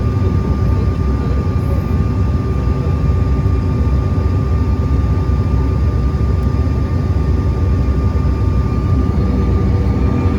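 Steady airliner cabin noise from a window seat: the engines and airflow make an even low drone with a thin steady tone above it, unchanging throughout.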